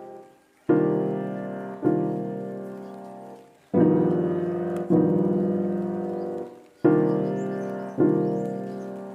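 Background piano music: slow chords struck in pairs, each ringing out and fading before the next.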